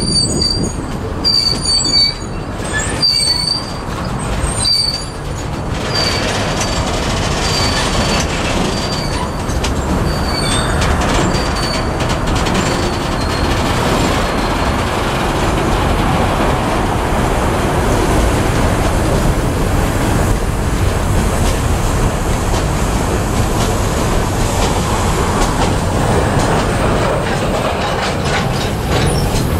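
Freight cars rolling past at close range: a steady rumble of steel wheels on the rails. A high wheel squeal recurs about once a second through the first half, then fades away.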